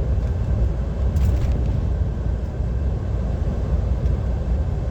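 Steady low rumble of a DAF XF 530 lorry's engine and tyres, heard inside the cab while cruising flat out on its speed limiter on the motorway. A brief faint hiss about a second in.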